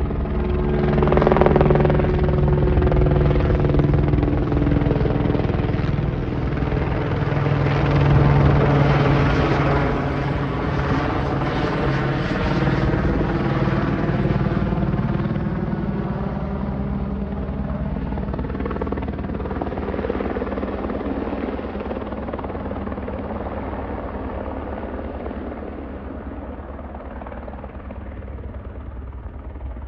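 Airbus Helicopters H125 single-engine helicopter flying low overhead: its rotor and turbine sound swells, peaking near the start and again about eight seconds in, then fades steadily as it moves away.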